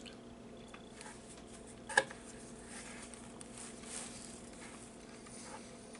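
Faint mouth sounds of a person chewing a soft, sugar-coated jelly candy, with a short sharp click about two seconds in.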